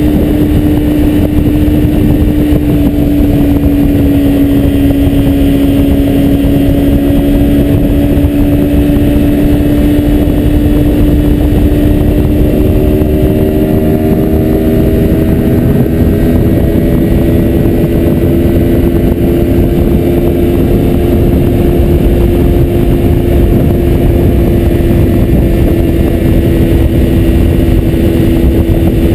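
2003 Kawasaki Ninja 250's parallel-twin engine running at steady freeway speed. Its note dips slightly a few seconds in and then climbs slowly as speed builds. Heavy wind and road rush runs underneath.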